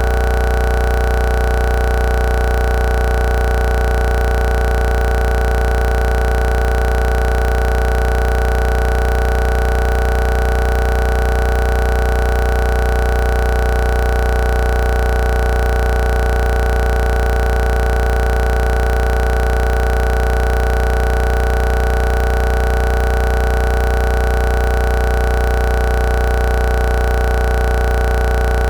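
A loud, unchanging electronic drone: a deep hum under several held tones that never vary, with no fireworks bursts.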